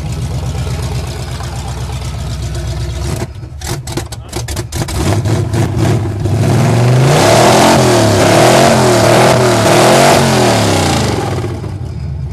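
Jeep CJ5's AMC 304 V8, freshly cold-started, idling. About three seconds in, the sound breaks up choppily for a couple of seconds, then the engine is revved up and down about four times before settling back to idle near the end.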